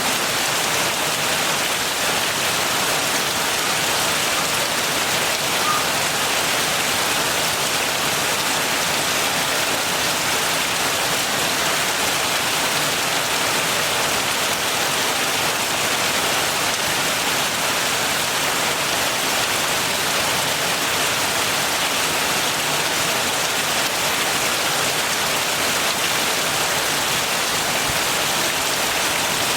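Steady heavy rain falling, an even hiss of many drops with no break or change.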